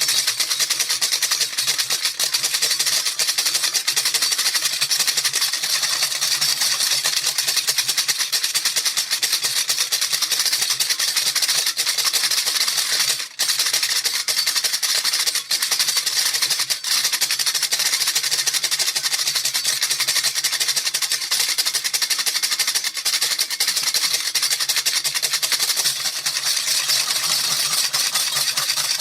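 Baby rattle shaken quickly and without pause, a dense steady rattling of beads with a very short break about thirteen seconds in.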